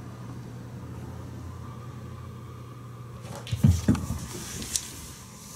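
A steady low hum, with a cluster of loud thumps and knocks about three and a half seconds in and a lighter click shortly after.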